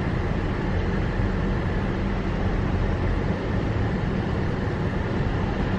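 Steady road and engine noise inside a moving car's cabin: an even rumble with a constant low hum.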